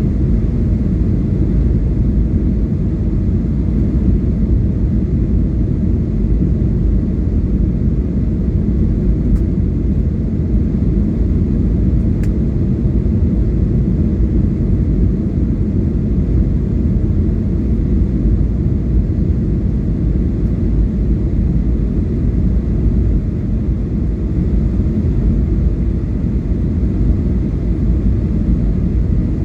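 Airliner cabin noise in flight: a steady low rumble of engines and airflow. There are two faint ticks a few seconds apart near the middle.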